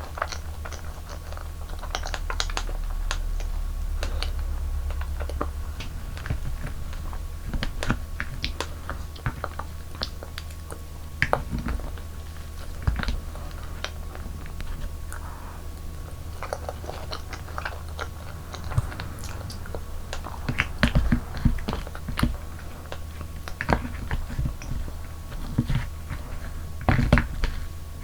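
Close-miked chewing and biting of soft dessert food, with irregular wet mouth clicks and smacks.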